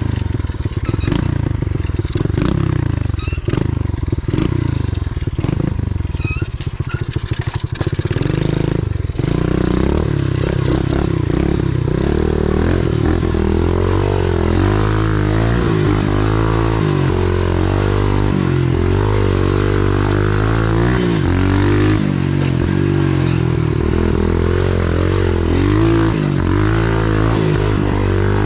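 A 125cc pit bike's single-cylinder four-stroke engine running as the bike is ridden along a dirt trail. It runs at low, uneven revs for the first several seconds, dips briefly, then revs up and down again and again.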